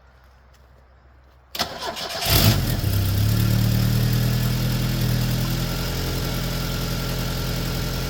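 Fox Body Ford Mustang engine cranking briefly about a second and a half in, catching with a quick flare, then settling into a steady idle, its crankcase filled with Dawn dish soap and water in place of oil.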